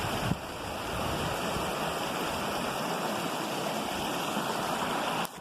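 Water from a mineral spring running down a small stream, a steady rushing. There is a brief low bump just after the start, and the sound drops off suddenly just before the end.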